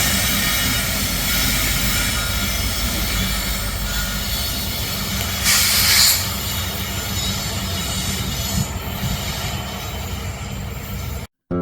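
Slow-moving Kansas City Southern train rolling by at a creep, its wheels giving a steady high squeal over the rumble of the cars. A brief louder hiss comes about five and a half seconds in, and the sound cuts off abruptly near the end.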